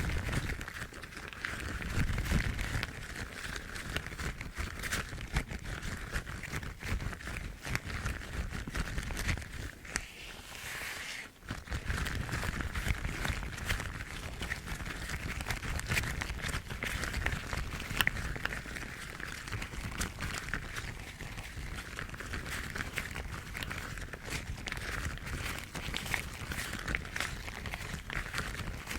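Rubber household gloves rubbed and scrunched by gloved hands, a continuous crinkling rustle with a brief lull about eleven seconds in.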